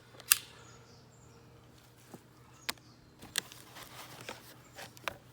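A sharp click about a third of a second in, then several fainter short clicks and taps, over a faint steady low hum.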